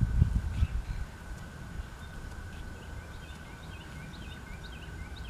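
Wind buffeting the camera's built-in microphone in the first second, then a small songbird chirping a quick run of short high notes over the last half or so. A faint steady high tone sits underneath.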